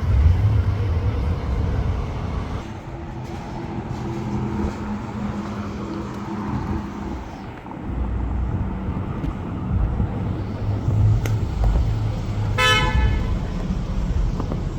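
Street traffic with car engines running, and one short car-horn toot near the end.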